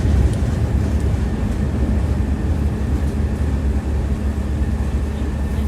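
Tram running along the rails, heard from inside the car: a steady low rumble of the wheels and running gear, with a few faint ticks.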